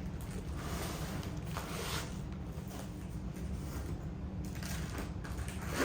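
Soft, scattered rustling and scraping of things being handled, over a steady low rumble.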